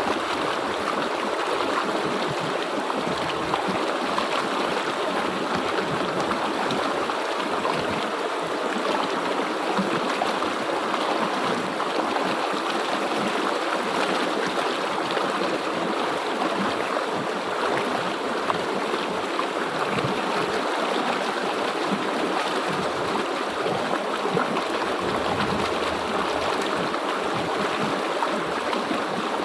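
River water flowing steadily over rocks, a continuous rushing with gurgling and trickling.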